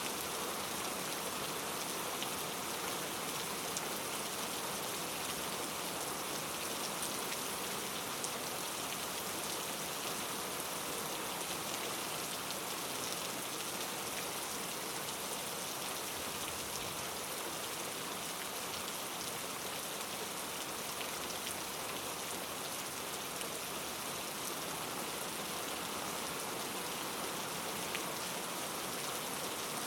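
Steady rain falling on a surface, an even hiss of many drops with scattered faint individual drop ticks.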